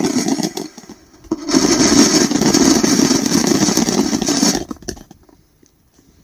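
Firework fountain burning with a loud, steady rushing hiss that drops out briefly about a second in, then dies away about five seconds in as the fountain burns out.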